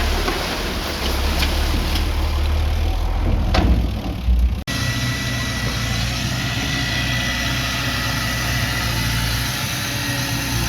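Heavy earthmoving equipment's diesel engines running with a deep rumble and some knocks. The sound cuts abruptly about four and a half seconds in to a steadier engine note with a faint high whine.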